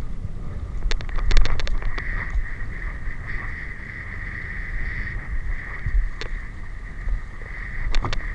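Low rumbling wind noise on the microphone over a steady high hum. A quick run of sharp clicks comes about a second in, with a few more near the end.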